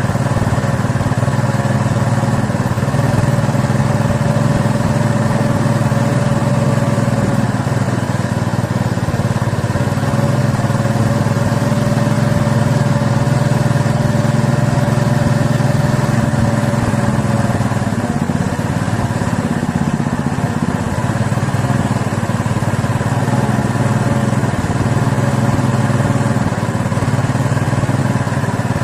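A small engine running steadily, its pitch holding nearly constant.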